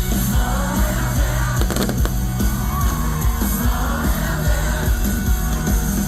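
Live pop concert music played loud through a PA: a band with a heavy, steady bass and a voice singing, with yells from the crowd.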